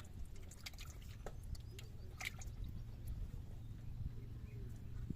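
Water splashing and dripping in scattered small splashes over a steady low rumble.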